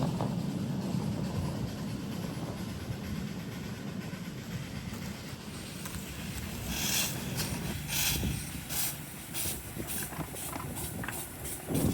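Miniature live steam locomotive on 7.5-inch gauge track: a low rumble of running, then from about halfway through a series of steam exhaust chuffs that come closer and closer together as the engine picks up speed.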